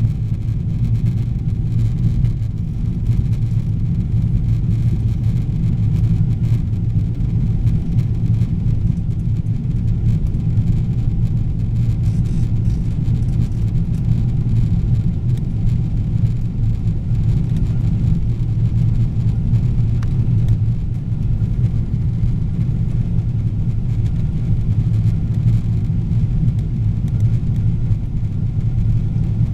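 Steady low rumble of a Boeing 777-300ER's GE90 engines and airflow heard from inside the passenger cabin in flight, unchanging throughout.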